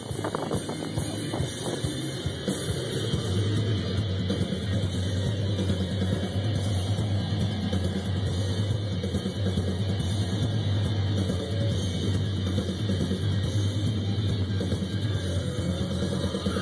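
Steady drone of a car's engine and tyres inside the cabin of a moving car, with rock music with drums playing over it.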